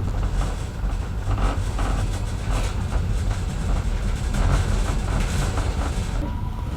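Heritage railway train running along the line: a steady low rumble with the irregular clatter of carriage wheels over the rails.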